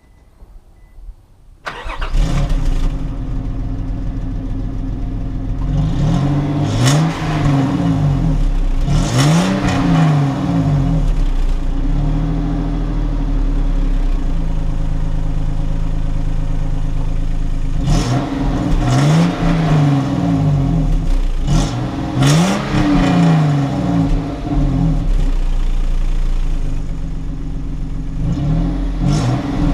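Nissan Pathfinder engine starting about two seconds in, then idling, with the revs pushed up and let fall several times. The exhaust is heard with the muffler cut almost all the way through.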